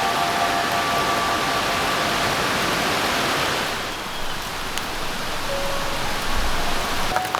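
Steady rain falling in a forest, an even hiss that eases a little about four seconds in. Soft background music notes fade out at the start, and others come in near the end.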